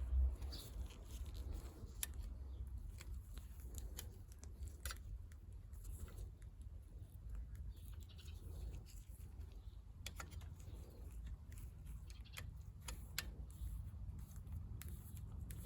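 Scattered light clicks and taps of small parts being handled, over a low steady rumble, with a louder bump right at the start.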